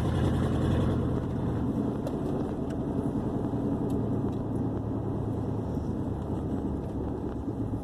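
Steady low drone of engine and road noise heard from inside the cab of a moving vehicle at highway speed.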